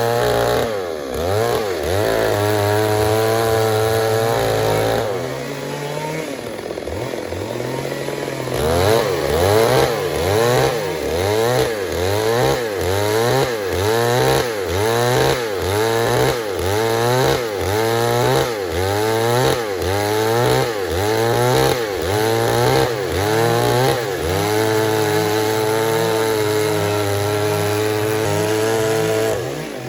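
Stihl MS 382 two-stroke chainsaw running. Its engine speed rises and falls about once a second through much of the middle, with stretches held steady at high revs near the start and near the end.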